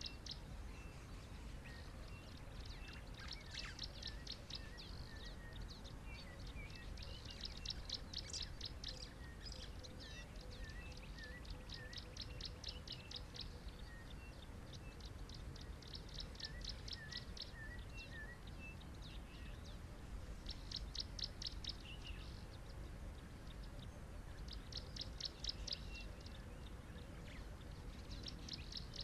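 Small birds calling: a rapid high trill lasting a second or two, repeated about every three to four seconds, with scattered short chirps between, over a steady low background rumble.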